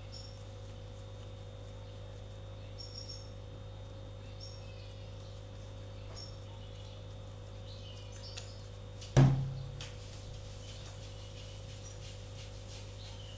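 A small bird chirps now and then over a steady low hum, and one loud thump sounds about nine seconds in, dying away quickly.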